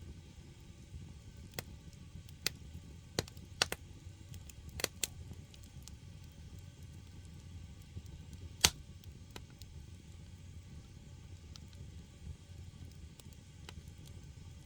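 Split firewood burning in a Korean agungi firebox: a low steady rumble from the fire with sharp pops and crackles, a cluster of them a couple of seconds in and one loud pop past the middle.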